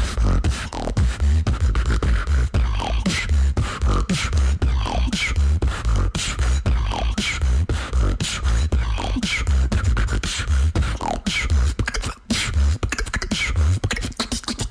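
A female beatboxer performing solo: a steady groove of deep bass kicks and sharp snares, laced with falling vocal swoops, with a brief break about twelve seconds in.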